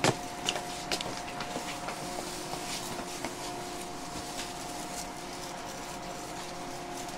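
Inside a JR 123 series electric railcar: a steady mechanical hum from the car's equipment, with a sharp click right at the start and several lighter clicks and knocks over the next couple of seconds.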